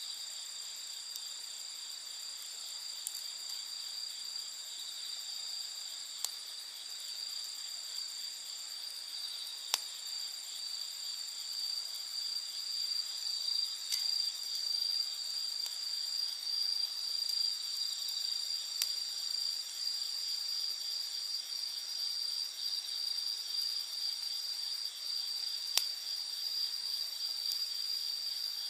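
A steady chorus of night insects chirring in several high pitches at once, growing a little louder partway through. A handful of sharp pops from a crackling wood campfire are scattered through it.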